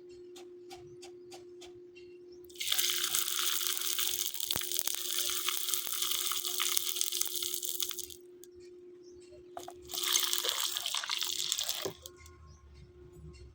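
Two bursts of loud, steady hissing, the first about five and a half seconds long and the second about two, over a faint steady hum.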